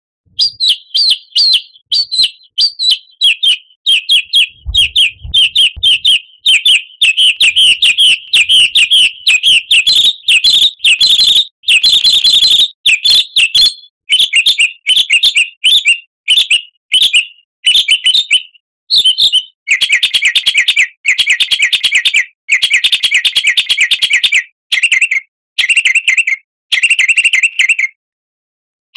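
A songbird singing a long run of fast, chattering chirps and trills, broken by short pauses. About twenty seconds in, the phrases shift to a lower, denser trill. This is a 'pancingan' song recording of the kind played to prompt caged songbirds to sing.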